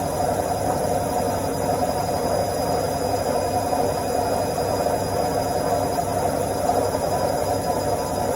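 Washing machine in its spin cycle: a steady drum whir and rumble with a faint high whine, holding an even pitch and level.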